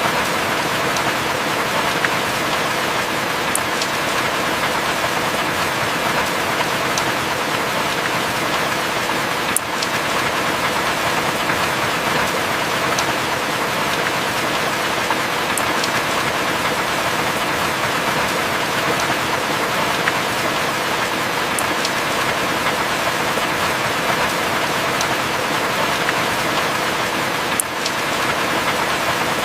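Heavy rain falling steadily, an even hiss of dense drops, with a few sharp single ticks of drops every several seconds.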